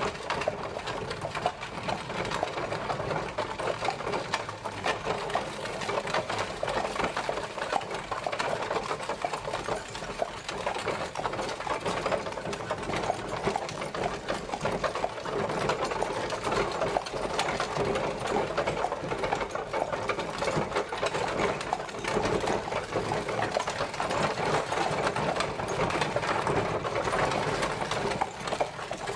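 Horse-drawn carriage on the move: a steady, dense rattling clatter.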